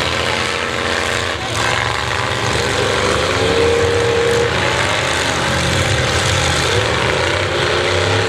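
Demolition derby cars' engines running loud, revving up and down in pitch. There is a short knock about one and a half seconds in.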